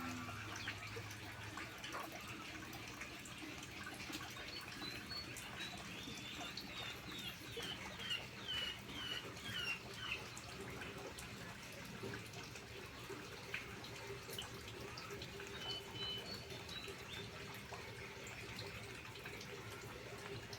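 Asian koel calling: a run of short, high, slightly falling notes, about two a second, with a brief few more later, over a steady background hiss.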